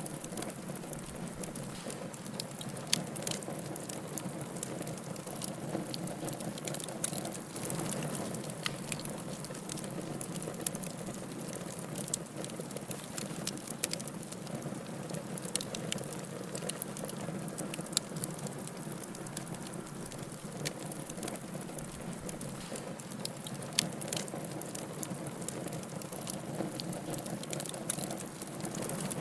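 Wood fire burning in a fireplace: a steady soft rush of flames with irregular crackles and sharp pops, a few of them louder than the rest.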